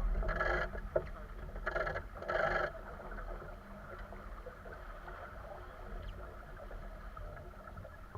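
Water and wind noise aboard a small sailboat under way, with a steady low rumble. Three short louder rushes come in the first three seconds.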